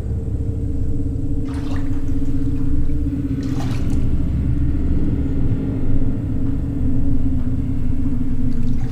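A low, steady rumbling drone with a held hum in it, typical of horror-film sound design, broken by two brief hissing, splash-like noises about a second and a half in and again two seconds later.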